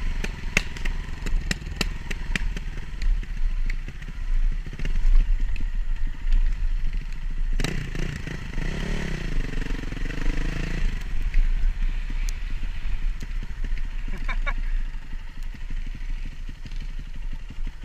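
Dirt bike engine running while riding, with short clicks and clatter throughout. Its note rises and falls about eight to eleven seconds in.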